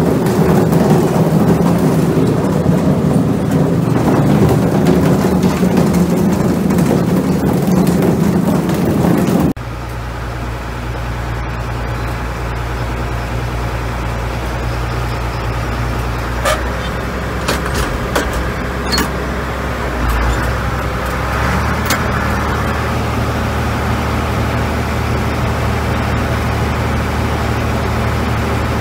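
A motor vehicle's engine running. About a third of the way in, the sound cuts abruptly to a different, steadier engine drone, with a few sharp clicks later on.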